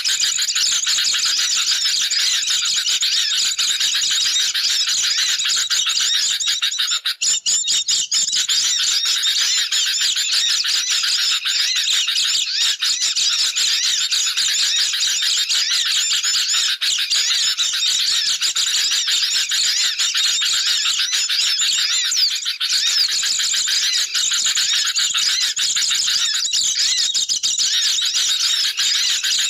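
Dense, unbroken chattering of a crowd of sooty-headed bulbuls and white-eyes, many high chirps and squeaky calls overlapping without pause. It is a bird-lure recording, agitated flock calls used to draw wild birds in.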